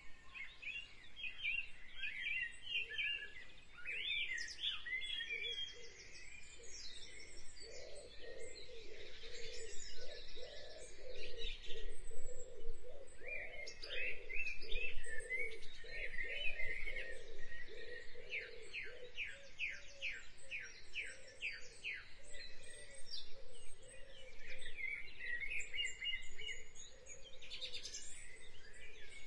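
Several birds singing and chirping, with quick runs of repeated notes.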